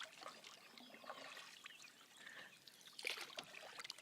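Faint water trickling and lapping around a canoe, with a short louder splash about three seconds in.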